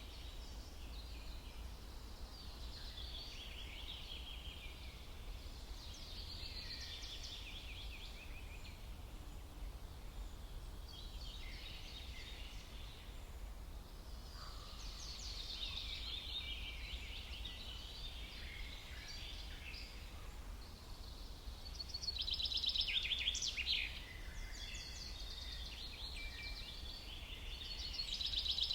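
Several songbirds singing in overlapping quick chirping phrases over a low steady rumble, with louder bursts of rapid chirps about three-quarters of the way through and again at the very end.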